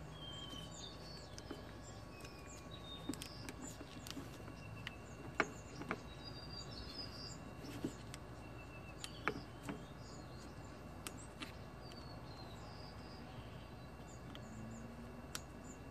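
Quiet steady background noise with small birds chirping now and then, and a few sharp little clicks, the clearest about five and nine seconds in.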